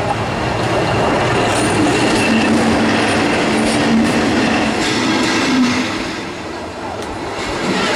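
A MÁV V43 electric locomotive and its train pass directly over a camera lying between the rails: loud, continuous rumble and clatter of wheels on rail close overhead. The sound eases briefly about six seconds in, then rises again.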